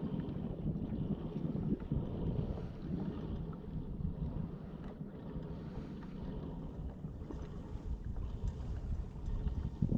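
Wind buffeting the microphone in a low, uneven rumble, with water moving around a fishing kayak.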